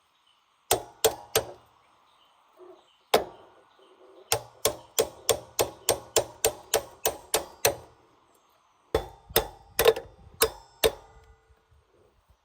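Repeated hammer blows with a short ring after each. First come three quick strikes, then a single one, then a steady run of about a dozen at three or four a second, and after a pause five more near the end.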